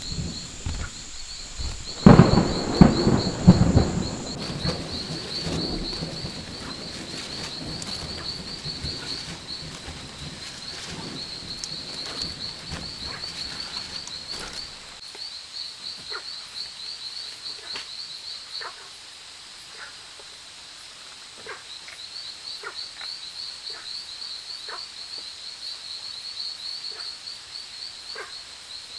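Jungle insects keep up a steady, fast-pulsing high trill. A loud rumble of thunder breaks in about two seconds in and fades away over the next few seconds. Scattered short clicks or calls follow later on.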